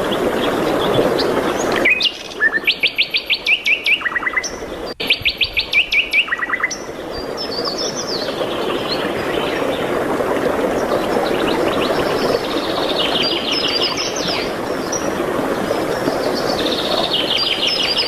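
Songbirds singing, in phrases of rapid repeated notes, over a steady rushing background. The background drops away for a few seconds while the loudest trills sound.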